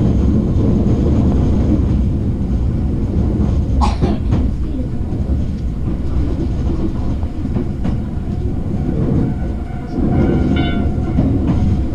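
Hankyu electric train running, heard from inside the carriage: a steady low rumble of wheels on track, with a sharp clack about four seconds in and a brief high squeal near the end.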